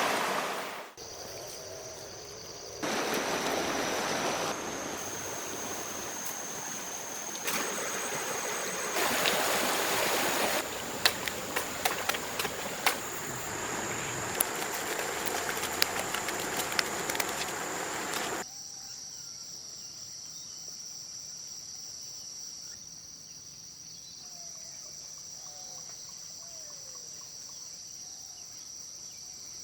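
Flowing stream water with a steady high insect trill over it and scattered sharp clicks. About two-thirds through, the water sound cuts out abruptly, leaving the insects' steady high trill and a few faint bird chirps.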